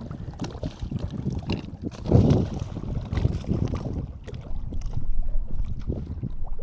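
Wind buffeting the microphone in uneven gusts, a low rumble with one stronger gust about two seconds in.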